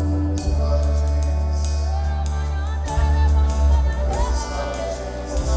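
Gospel worship music: singing over a band with deep sustained bass and a steady beat of cymbal and percussion hits.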